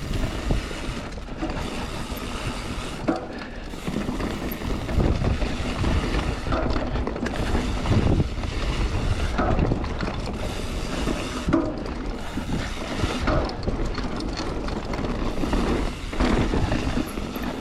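Mountain bike ridden along a dirt trail: tyres rumbling over the ground, with irregular knocks and rattles from the bike going over bumps.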